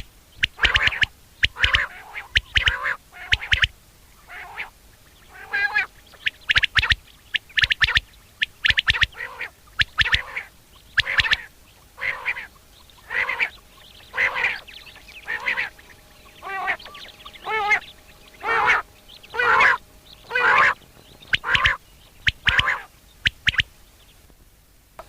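Common quail calling over and over, about one call a second.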